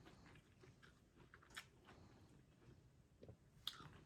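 Near silence: room tone with two faint short clicks, one about a second and a half in and one near the end.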